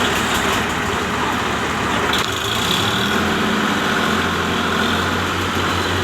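Tractor engine running steadily with a low, even hum that shifts slightly and grows a little stronger about two seconds in.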